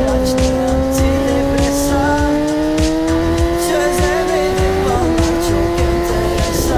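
Suzuki GSX-R 1000 inline-four engine pulling hard under acceleration, its pitch climbing steadily, then stepping down about five seconds in as it shifts up a gear. Music with a steady beat plays underneath.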